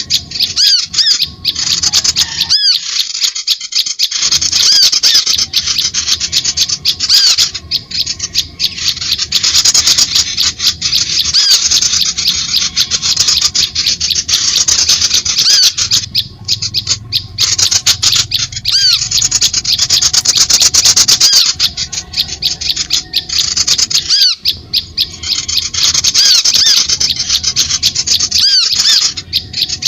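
Bird-lure recording of songbird calls: a loud, dense, continuous chatter of rapid high-pitched chirps, played to draw wild birds in.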